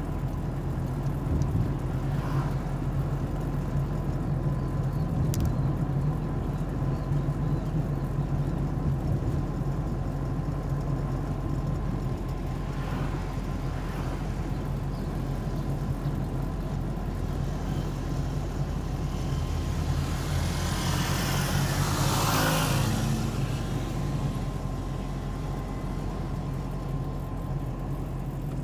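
Steady engine and road rumble of a car on the move, with a vehicle passing close by about two-thirds of the way through, its noise swelling and then falling away.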